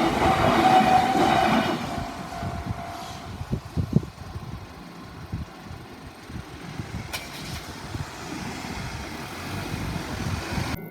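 A train passing over a level crossing. It is loudest in the first two seconds, with a few sharp knocks about four seconds in as the wheels cross the rail joints, then settles to a lower rumble.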